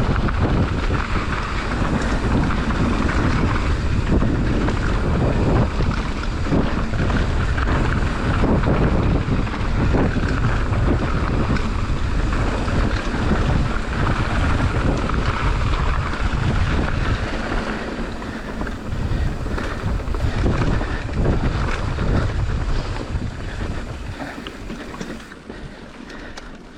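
Wind buffeting the microphone over the rush of mountain bike tyres on a rough trail during a fast descent, with frequent knocks and rattles from the bike. It gets quieter over the last few seconds as the bike slows.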